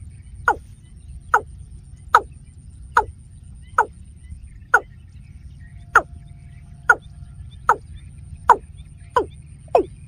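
A bird calling a short, sharply falling note over and over, a little under once a second, the calls coming faster near the end, over a low wind rumble.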